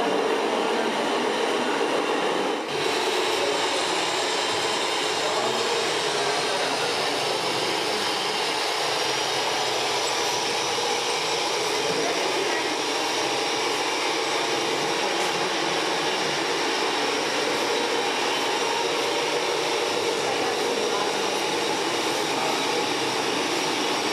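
Steady whirring of radio-controlled scale model trucks' electric motors and gearboxes running, with a brief drop about three seconds in.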